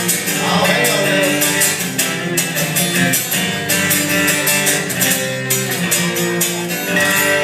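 Live country song's closing instrumental bars: guitars strummed over held chords after the last chorus.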